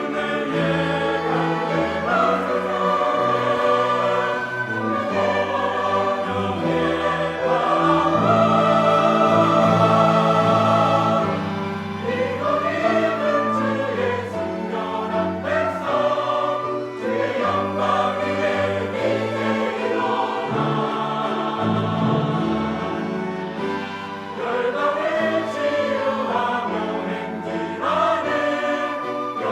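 Church choir singing a Korean sacred anthem in parts, with sustained notes over instrumental accompaniment.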